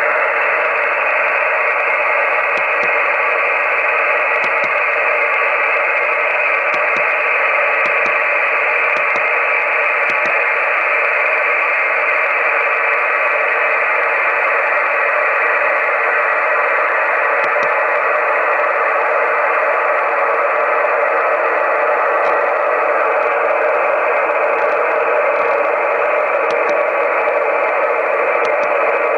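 Amateur radio receiver hiss: a steady band of noise through the receiver's speaker with no signal on it, broken by a few faint clicks.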